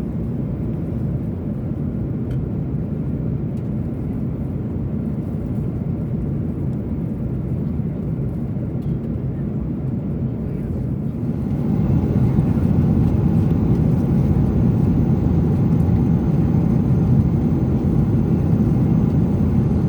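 Airliner cabin noise in flight: the steady low rush of the jet engines and airflow, which steps up in loudness about halfway through.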